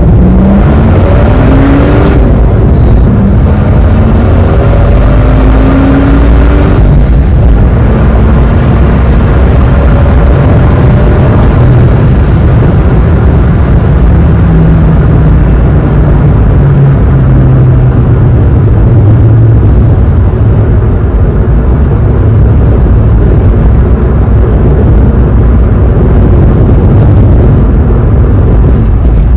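BMW E46 with a swapped-in N55 turbocharged inline-six accelerating hard, heard from inside the cabin. Engine pitch climbs, drops at a gear change about two seconds in, climbs again and drops at a second change around seven seconds in. The engine then settles to a steadier note that falls slowly later, under steady road and wind noise.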